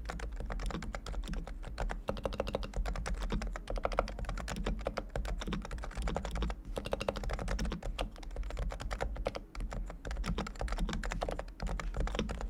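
Fast, continuous typing on a Realforce R2 Topre electrostatic capacitive keyboard whose switches have been fully lubricated. The keystrokes come as a dense, unbroken run of clacks.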